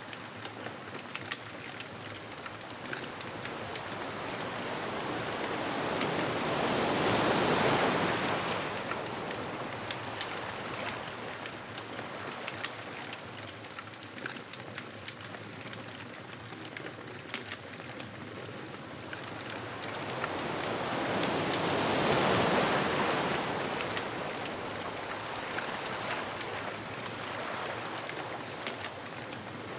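Ocean waves breaking on a beach, two slow surges that build and fall away about fifteen seconds apart, over the steady crackle of a bonfire.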